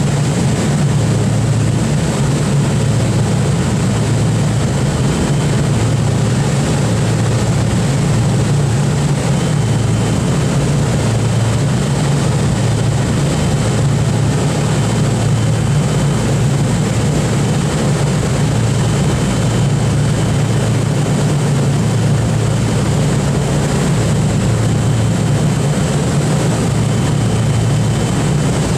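The Boeing B-29's four Wright R-3350 radial engines running steadily, a constant loud low propeller drone.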